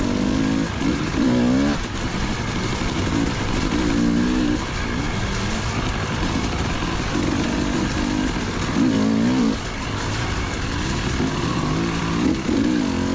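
Enduro dirt bike engine revving up and falling back again and again as it is ridden hard.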